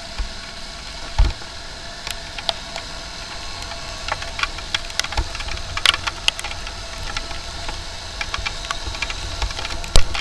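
Motorcycle riding in rain: a low engine and wind rumble under many irregular sharp ticks, like raindrops striking the helmet-mounted microphone, with a thump about a second in and a loud knock near the end.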